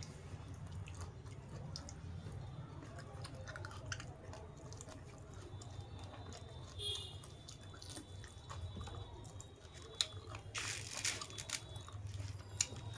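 A person chewing and biting food, with small wet clicks and crunches throughout and a louder crunchy burst about ten and a half seconds in. A low steady hum runs underneath.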